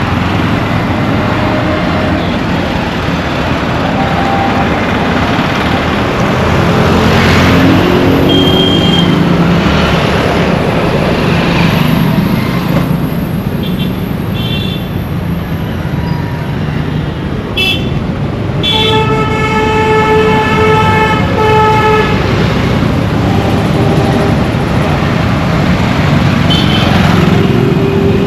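Busy road traffic with steady engine and tyre noise and repeated vehicle horns honking, the longest a held horn blast about two-thirds of the way through. An engine revs up near the first third.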